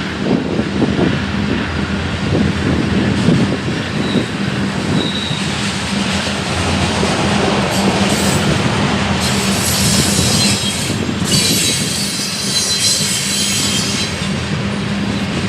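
Train cars rolling past on the rails with a steady rumble. A high-pitched wheel squeal comes in about eight seconds in and fades near the end.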